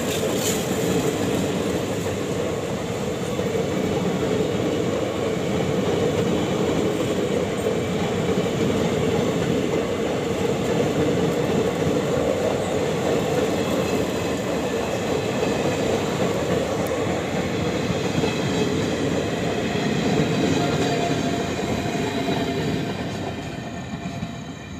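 Indian Railways passenger train running past at speed: a steady loud rumble of coach wheels on the rails, fading away over the last few seconds as the tail coach goes by.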